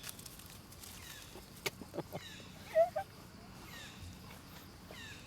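Birds chirping in the background, with repeated short falling chirps about once a second. A few sharp clicks sound around a third of the way in, followed by a brief, loud squeak about halfway through.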